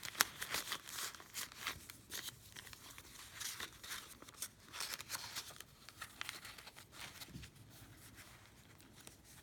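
Paper rustling and crinkling as the pages, envelope and cards of a handmade paper journal are handled: a run of light, quick rustles that thins out toward the end.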